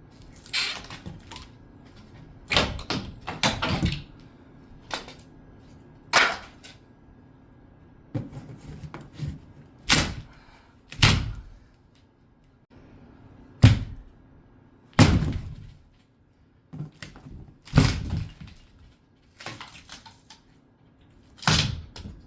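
Irregular heavy thuds, knocks and a few cracks, about a dozen over the stretch, as the wooden crate and parts of a large cat climbing tree are handled and pulled apart.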